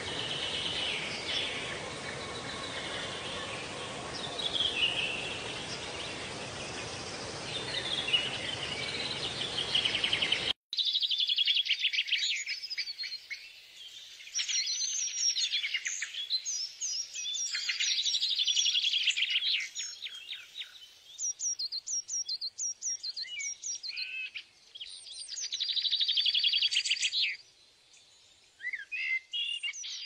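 Birds chirping and singing. For the first third the calls sit over a steady hiss; after an abrupt cut about ten seconds in, clear, rapid chirps and trills come in bursts with short pauses.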